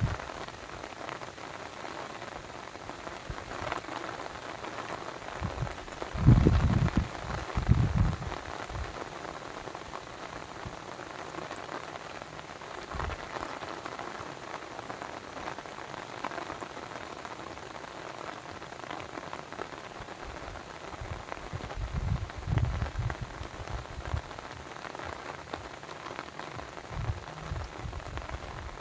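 Steady rain pattering, with brief low rumbles about six seconds in and again a little after twenty seconds.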